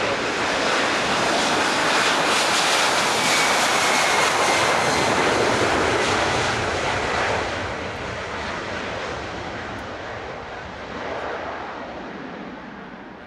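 Jet engines of a FedEx Boeing 767 freighter at takeoff power as it departs, a loud roar with a faint falling whine, easing off and fading over the second half as the aircraft moves away.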